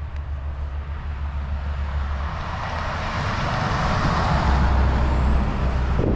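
Motor vehicle driving on a road: a steady low engine drone, with tyre and wind noise that grows louder from about two seconds in.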